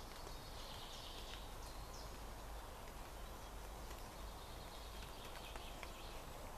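Woodland ambience in the rain: a steady hiss with scattered drip ticks, and a bird chirping several times during the first couple of seconds.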